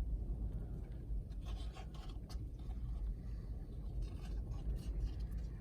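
Strong wind rumbling steadily, with scattered faint ticks and scrapes.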